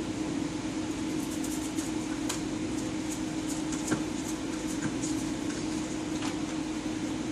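Steady low machine hum with scattered faint clicks.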